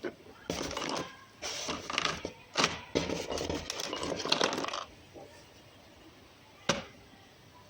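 Glass drinking cups being handled and knocked against each other, with clinks through the first five seconds and one sharp clink near the end.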